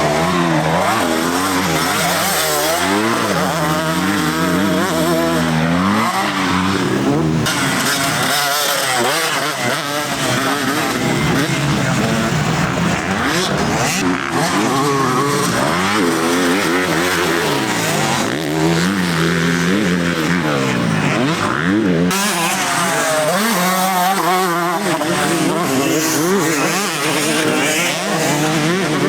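Several motocross bikes racing, their engines revving up and down over and across each other as they accelerate, shift and pass.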